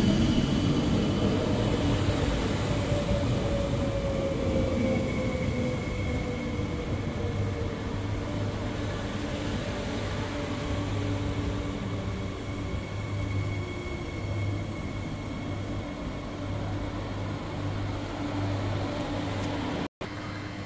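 Omneo Premium (Bombardier Régio 2N) electric double-deck train pulling in and braking to a stop, with a falling whine as it slows over the first several seconds. Then a steady low hum from the standing train.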